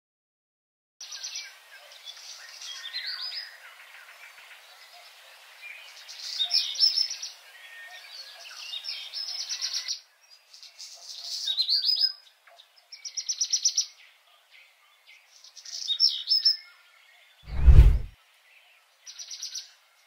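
Birds singing and chirping in a rural dawn chorus, many short rapid trilled phrases with gaps between them, starting about a second in. A single deep thump sounds a few seconds before the end and is the loudest sound.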